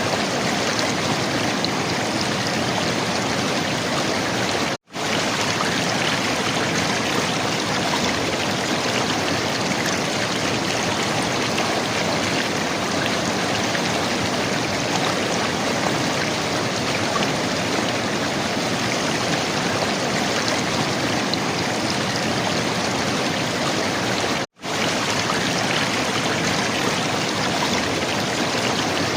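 River water flowing and gurgling in a steady rush, broken twice by a momentary dropout to silence.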